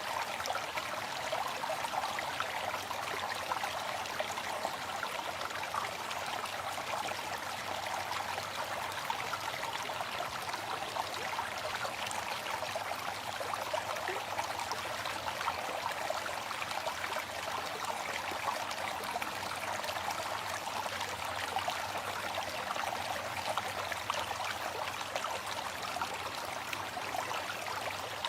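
Waterfall: water falling and splashing in a steady, unbroken rush, bright and fizzy rather than deep.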